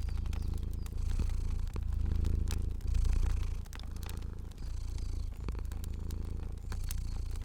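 A domestic cat purring steadily, the low purr swelling and dipping roughly once a second with its breathing, over a fire crackling with scattered sharp snaps.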